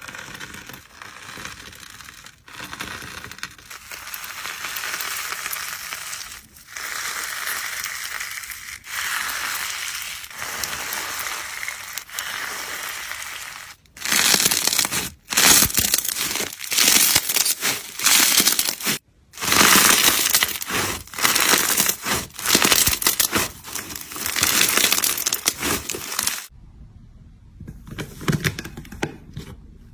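Hands squishing and pressing slime, making crackling, crunching sounds. A steady crackle gives way about halfway through to louder crackling pushes about once a second, then quieter squishing near the end.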